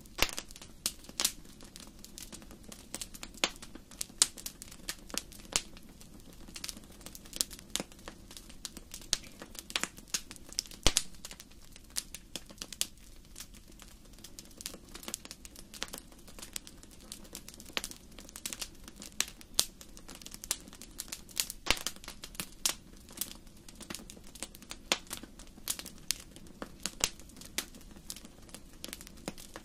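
Wood fire in a fireplace crackling: dense, irregular sharp pops and snaps over a faint steady low rumble of the flames.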